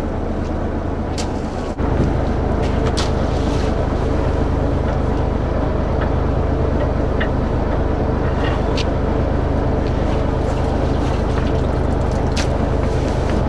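Fishing boat's engine and deck machinery running with a steady, loud drone that steps up abruptly and gets louder about two seconds in, with a few light knocks over it.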